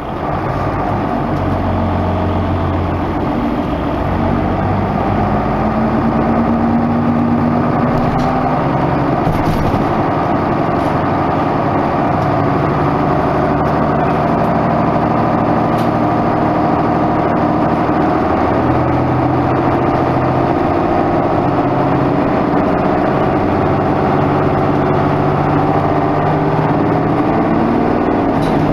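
Isuzu Erga Mio bus's diesel engine running under way. It picks up about half a second in, then its pitch climbs and drops back several times as it works through the gears.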